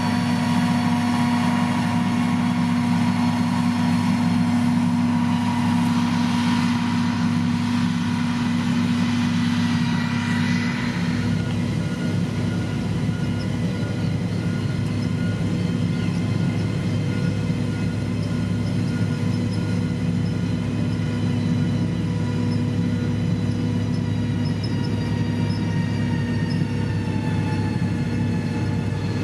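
Heavy construction machine's diesel engine running steadily, with a shift in its tone about a third of the way in.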